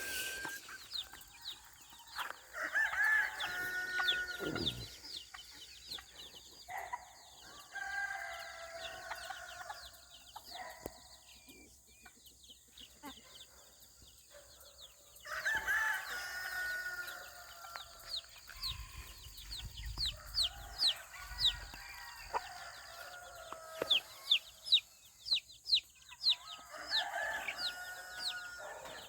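Roosters crowing about four times, each crow lasting a couple of seconds, amid hens clucking. Many short, high chirps from smaller birds run throughout.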